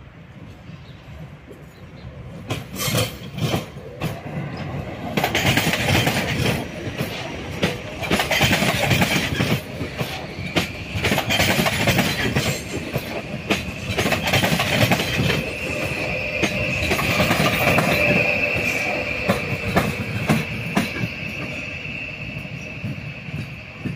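Train rolling past on station tracks, its wheels clattering over rail joints and growing louder over the first few seconds. About ten seconds in, a high steady wheel squeal sets in and fades away near the end.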